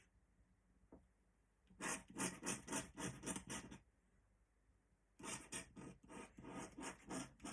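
Pen scratching on paper in quick repeated strokes, about four a second, in two bursts of about two seconds each: ink hatching or filling in a drawing.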